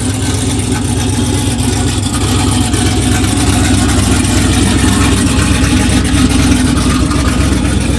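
A vehicle engine idling loudly and steadily, a deep, even note that grows slightly louder.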